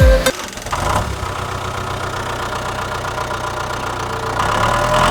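An engine idling steadily with an even, rapid beat. It gets louder about four and a half seconds in.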